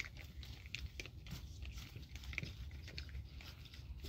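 Puppies biting, chewing and tugging at something between them: irregular small crunches and scuffling clicks.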